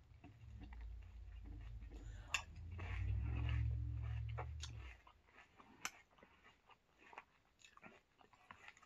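Close-up chewing of crunchy Oatmeal Crisp cereal in milk, with small crunches and mouth noises. A spoon clinks sharply against the ceramic bowl twice. A low rumble runs under the first five seconds, then stops.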